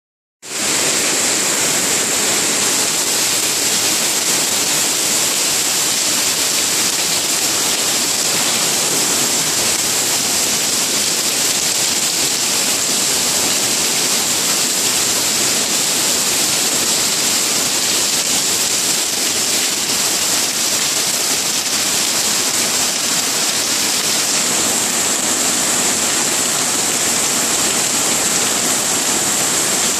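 Heavy tropical rain pouring down, a loud, steady hiss.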